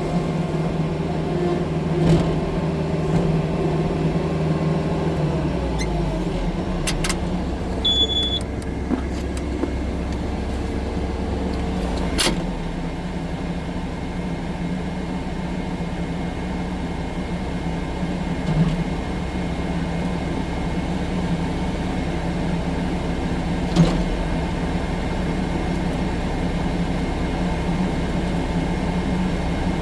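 Diesel engine of a 6-ton tracked skid steer loader running steadily, heard from inside the cab. The engine pitch drops about five seconds in, and a few sharp knocks come through over the run.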